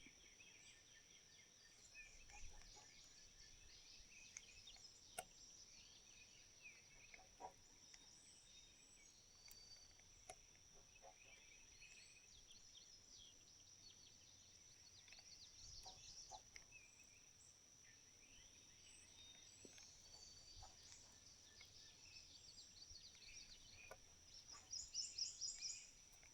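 Faint outdoor ambience, near silence: a steady high-pitched whine with many scattered bird chirps and a few soft clicks, and a quick run of louder chirps near the end.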